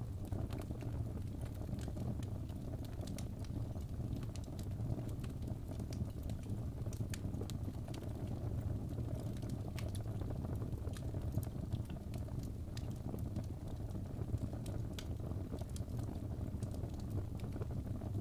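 Fireplace fire crackling: a steady low rumble of flames with irregular sharp pops and snaps scattered through it.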